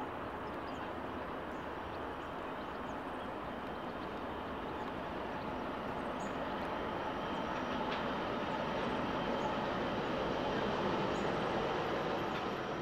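Diesel freight locomotives running as a long train eases slowly downhill, a steady rumble that grows gradually louder as the engines draw nearer.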